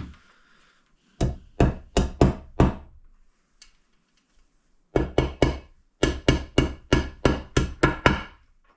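Hammer tapping a steel dowel pin into an aluminium ATV crankcase half, about seventeen sharp taps in three runs of two to three taps a second, with short pauses between the runs.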